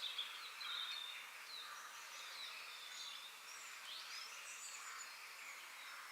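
Forest ambience: several small birds chirping and whistling in short, overlapping calls over a steady background hiss.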